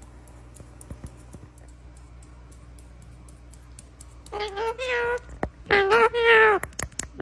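Grey-blue pet parrot giving two drawn-out, meow-like calls, each about a second long, in the second half. They follow a few seconds of quiet room hum.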